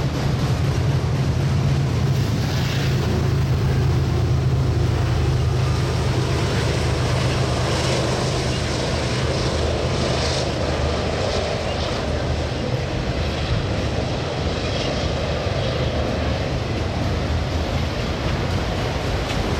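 Union Pacific freight train's autorack cars rolling past, a steady rumble and clatter of wheels on rail with a low drone that eases off about halfway through.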